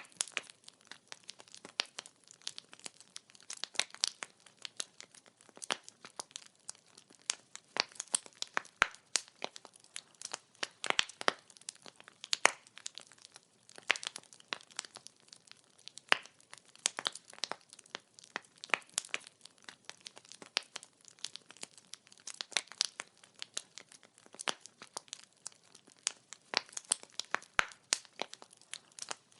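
Wood fire crackling: firewood burning with many irregular sharp pops and snaps over a faint hiss.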